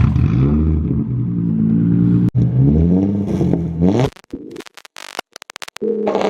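Modified car engine with a loud exhaust revving hard twice, its pitch climbing and falling each time, to try to shatter a glass cup set behind the tailpipe. After about four seconds the sound breaks up into short choppy fragments.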